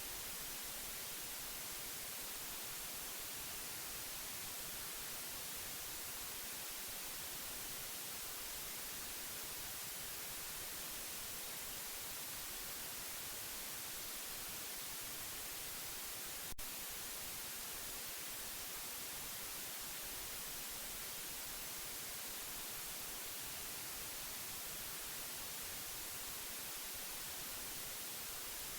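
Steady white noise: an even, unchanging hiss, strongest in the high frequencies. A single brief click cuts through it about two-thirds of the way in.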